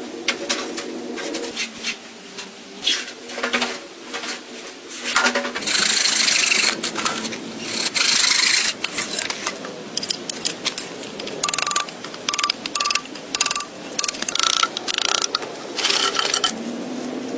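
Repeated rasping, scraping strokes, with a longer, louder scrape about six to nine seconds in.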